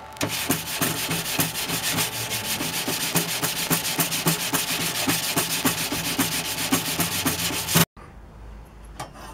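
An abrasive stone rubbed by hand in quick back-and-forth strokes, several a second, over a steel blade cut from an old hand-saw blade, cleaning up its surface. The rubbing stops abruptly near the end.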